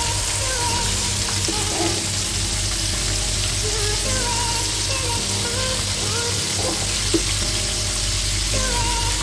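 Flour-coated calamari strips deep-frying in hot oil, a steady sizzle, with a short tap near 7 seconds in. Background music plays along with it.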